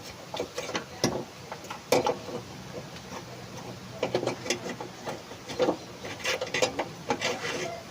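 Irregular metal clicks and clanks of hand tools working on a car's engine bay during an engine-mount replacement, some knocks ringing briefly.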